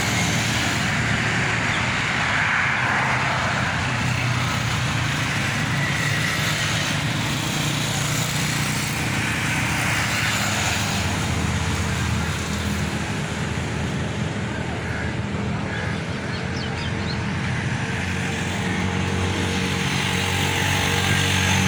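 Steady road traffic: vehicle engines running with a wide rush of road noise and no break in the sound.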